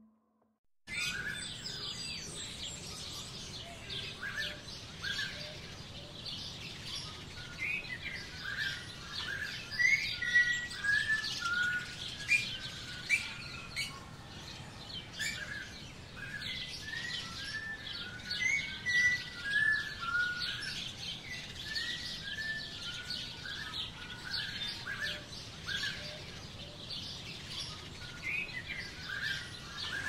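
A chorus of small songbirds, many short chirps and trills overlapping, beginning about a second in.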